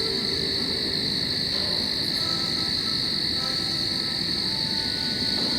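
A steady, high-pitched chorus of calling frogs or insects, running without a break.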